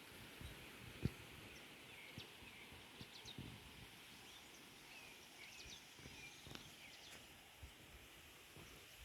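Faint outdoor ambience with scattered short bird chirps, over a few soft low thumps, the loudest about a second in.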